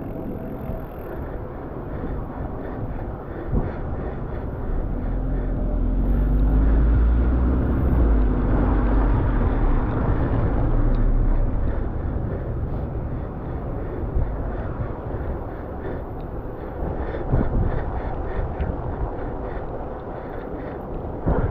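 Wind and road noise on a moving bicycle, with a motor vehicle passing: a low rumble swells, falls slightly in pitch, is loudest about six to eleven seconds in, then fades.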